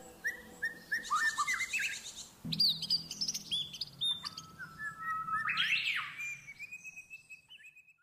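Several songbirds chirping and singing over one another: short whistled, sliding notes and a brief high trill. A faint low hum joins about two and a half seconds in, and the sound fades out near the end.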